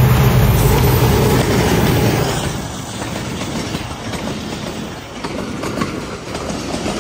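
Pakistan Railways diesel-electric locomotive passing close by at the head of a passenger express. Its engine is loud for the first couple of seconds, then it fades as the coaches roll past with a rhythmic clatter of wheels over rail joints.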